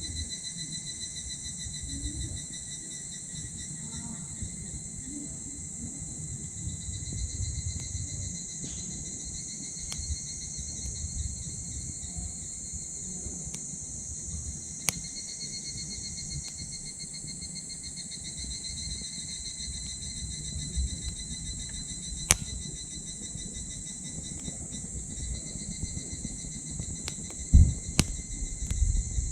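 Steady chorus of insects trilling, with a wood fire in a small titanium wood stove crackling underneath; there are a few sharp pops, about halfway through, later on, and near the end.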